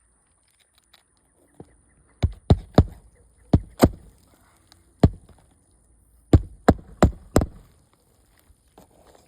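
Roofing nails being driven into asphalt shingles: about ten sharp strikes in quick groups of two or three, starting a couple of seconds in and stopping near the end.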